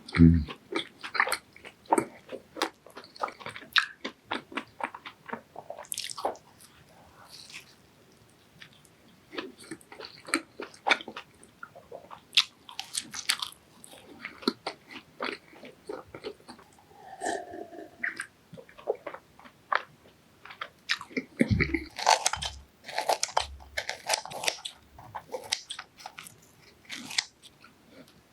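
Close-miked eating: a person bites and chews fried doughnuts, with crisp crunching and crackling bites between softer chewing. There are a few low thumps right at the start and again about three-quarters of the way through.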